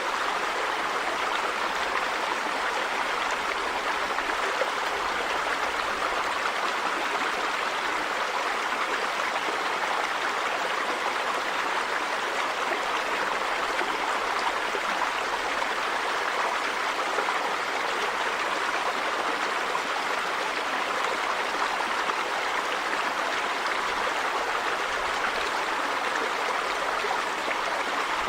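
River water running over stones, a steady rushing with gurgling.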